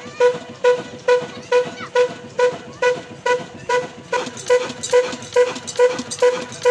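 Old 22 HP black stationary diesel engine running slowly and steadily, its exhaust beating about twice a second, each beat a loud pop with a short hooting tone.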